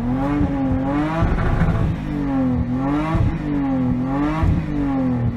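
A vehicle engine whose pitch dips and rises in a regular cycle, about once every second and a half, like an off-road vehicle being revved up and down repeatedly.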